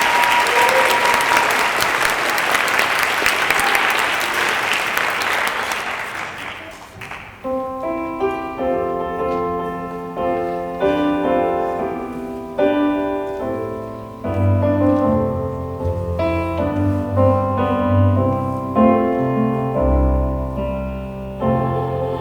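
Audience applauding for about seven seconds, then fading out. A piano then starts the introduction to a song, playing chords and, from about halfway through, low bass notes.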